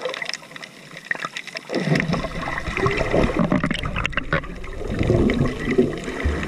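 Shallow seawater sloshing and splashing, with small clicks, getting louder and heavier about two seconds in.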